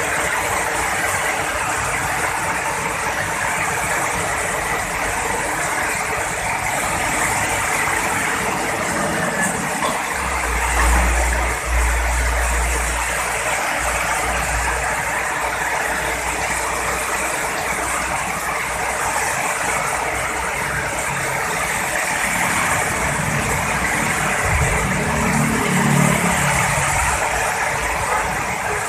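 Heavy rain falling steadily, with deep rumbles of thunder about a third of the way in and again near the end.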